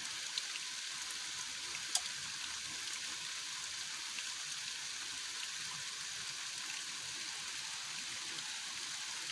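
Steady rain, an even hiss, with a couple of faint ticks about half a second and two seconds in.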